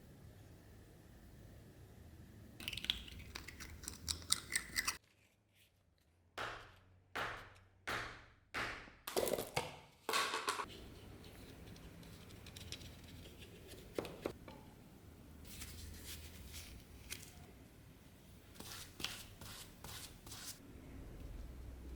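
Hand-tool work at a workbench: a run of small clicks, then five or six rasping strokes a little under a second apart, each trailing off, then scattered light taps and clicks.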